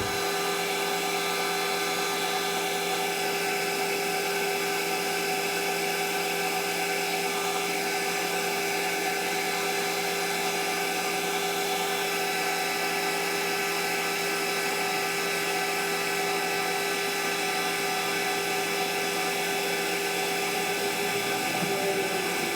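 Belt-driven metal lathe on its slow pulley running steadily with a whine, taking a finishing cut. Its pitch sags slightly near the end as it starts to wind down.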